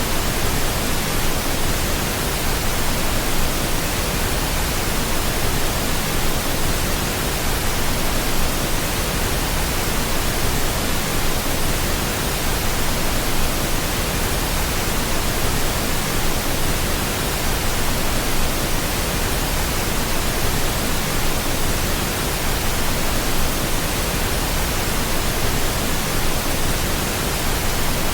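Steady pink noise: an even, unbroken hiss spread across the whole range, with no change in level.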